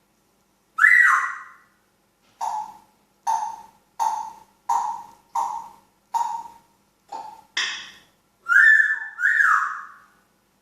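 African grey parrot whistling and calling: a rising whistle about a second in, then a run of about eight short calls less than a second apart, and two more rising-and-falling whistles near the end.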